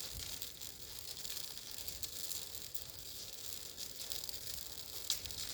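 A bonfire of bird cages burning, with a steady hiss and scattered sharp crackles.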